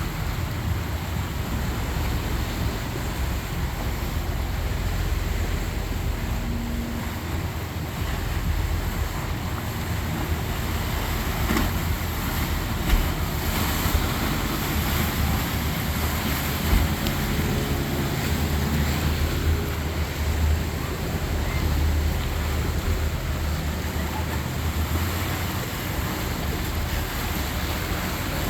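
Motorboat engines running past in choppy canal water, a low rumble that swells in the second half, over the wash of waves and wind buffeting the microphone.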